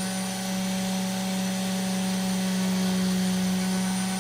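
Small electric power tool running at a steady speed with a constant hum, used to clean and polish the back of a pocketknife blade.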